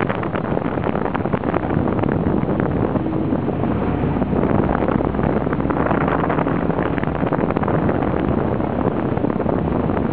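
Wind buffeting the microphone in gusts, over the steady running of the tow boat's motor.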